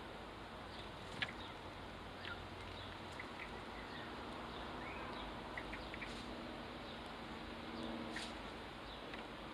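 Sparrows giving short, scattered chirps over a faint steady outdoor background, with a couple of sharp ticks. A low hum swells briefly near the end.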